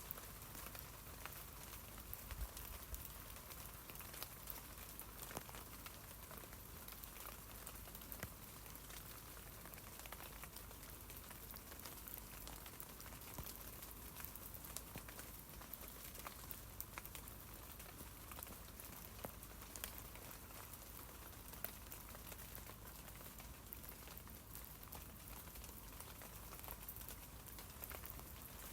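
Steady rain falling on tree leaves: a soft continuous hiss dotted with many small individual drop taps.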